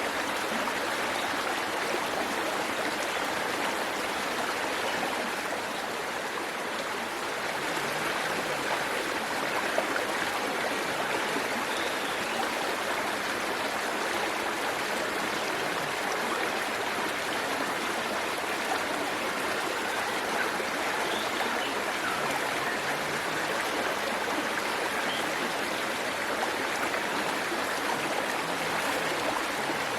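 Waterfall rushing and splashing in a steady, even wash of water noise.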